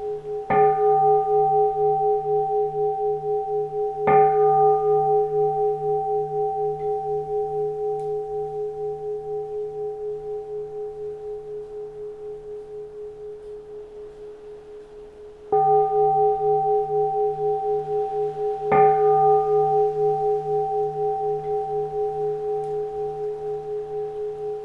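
Keisu, a Japanese Zen temple bowl bell, struck four times: near the start, about 4 s in, and twice more after about 15 and 19 seconds. Each stroke leaves a long, slowly pulsing ring that fades between strokes.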